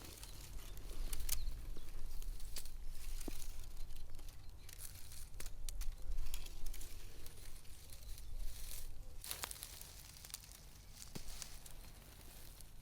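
Irregular rustling and crinkling with a few sharp clicks over a low rumble.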